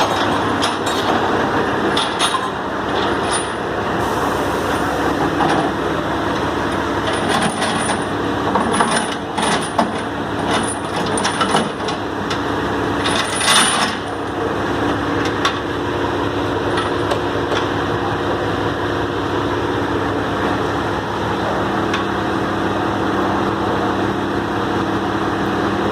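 Truck engine running steadily, with a scatter of sharp metallic clinks and knocks over it from about two seconds in, the loudest near the middle, then only the steady engine hum.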